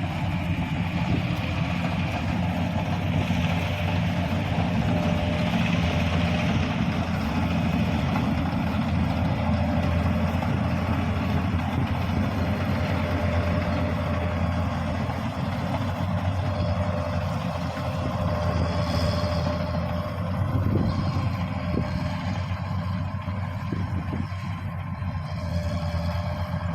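Kubota DC-series combine harvester's diesel engine running steadily, with a thin constant whine from its machinery over the low engine drone.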